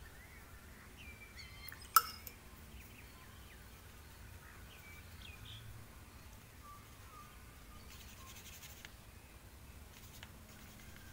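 Faint background with scattered short bird chirps, and one sharp click about two seconds in.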